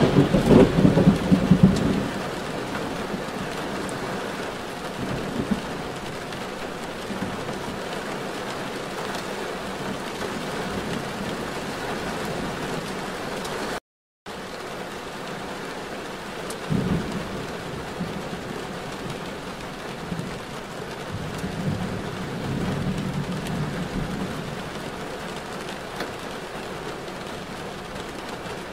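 Steady heavy rain, with a loud low rumble in the first two seconds and softer low swells later; the sound cuts out for a moment about halfway through.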